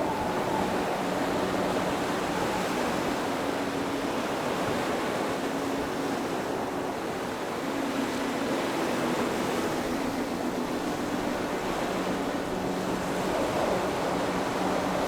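Steady rushing noise, with a few faint steady tones beneath it.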